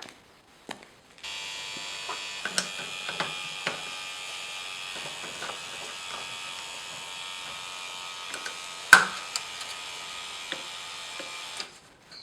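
A small electric motor buzzing steadily, switching on about a second in and cutting off abruptly near the end, with several light clicks and one sharp knock about nine seconds in.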